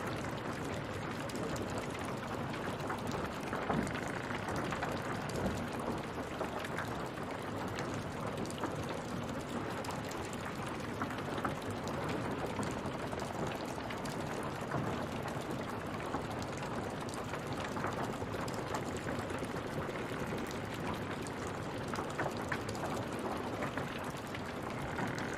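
Water running and splashing steadily: an even hiss dotted with many small, drop-like ticks.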